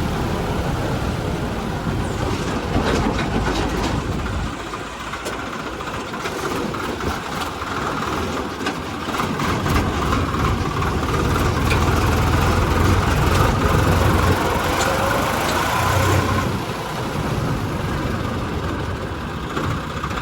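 Swaraj 744 XT tractor's diesel engine running, swelling louder for several seconds in the middle before settling back, with scattered light clicks and knocks over it.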